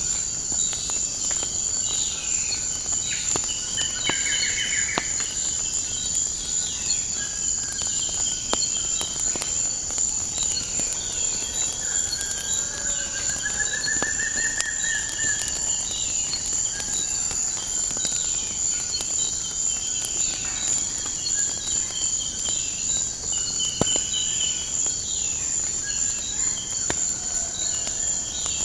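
A steady high insect trill, like crickets, with birds chirping and calling over it. One bird gives a longer trill about halfway through. Scattered sharp pops and cracks of a crackling wood fire run through it all.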